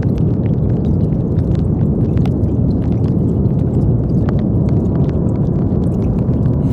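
Brown noise: a steady, deep rushing hiss, heaviest in the bass, with faint scattered ticks over it.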